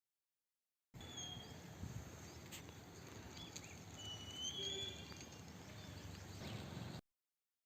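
Outdoor background noise with a low rumble and a few short, rising whistled chirps, typical of birds. It starts abruptly about a second in and cuts off sharply near the end.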